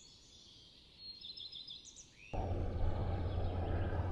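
Faint high bird chirps about a second in. Then, just past halfway, a sudden steady low rumbling noise of wind buffeting the microphone sets in.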